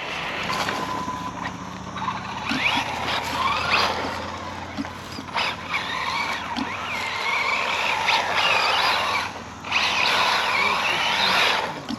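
ZD Racing RX12 RC rally car being driven on sand, its motor giving a high-pitched whine that rises and falls with the throttle over the hiss of the tyres, with a brief let-off near the ten-second mark.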